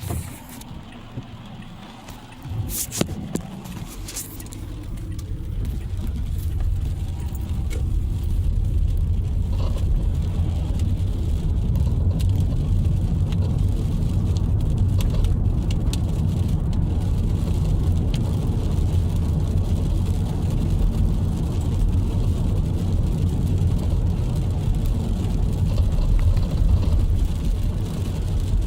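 Car driving, heard from inside the cabin: low engine and road rumble that builds over the first several seconds as the car gets under way, then holds steady. A few sharp clicks and knocks come in the first few seconds.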